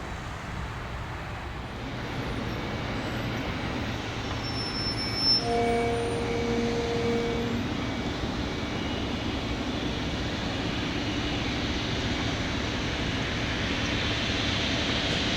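Jet engines of a taxiing Boeing 777F freighter running, a steady roar with a high whine that grows louder towards the end. A short steady tone sounds for about two seconds roughly midway.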